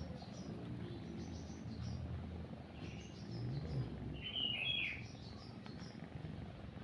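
Small birds chirping in short high phrases, the loudest call about four and a half seconds in, over the low steady rumble of a cat purring.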